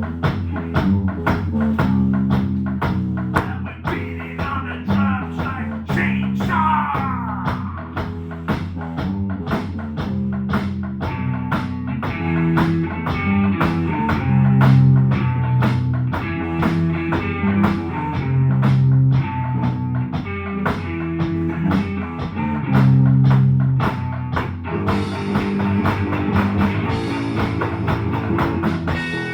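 Home band playing live: electric guitar riffs over a steady beat.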